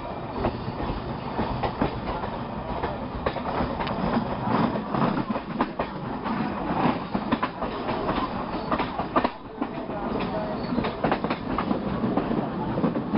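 Electric suburban train running along the track, heard from an open coach doorway: a steady rumble with the irregular clatter of wheels over rail joints. It goes briefly quieter about nine seconds in.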